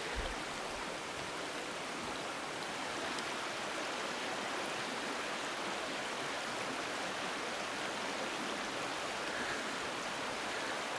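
Mountain stream rushing steadily down a small cascade, an even hiss of water, with a brief low thump just after the start.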